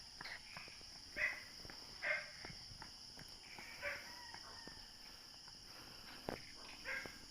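Faint pre-dawn countryside ambience: insects trilling steadily, with a handful of short animal calls and soft footsteps.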